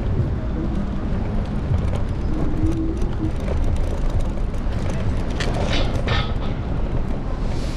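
Steady low rumble of street traffic and wind on a handlebar-mounted camera's microphone, heard from a moving electric scooter in city streets.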